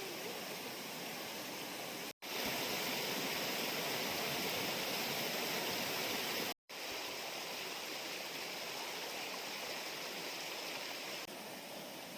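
Rushing water of a small waterfall, a steady hiss of falling water, cut off twice by brief gaps of silence, about two seconds in and about six and a half seconds in, and a little quieter after eleven seconds.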